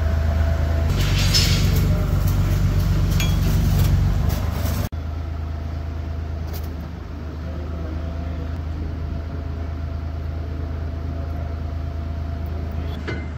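Tractor engine running at a steady idle, a low steady hum with a few light clinks in the first seconds. The sound breaks off sharply about five seconds in and picks up again a little quieter.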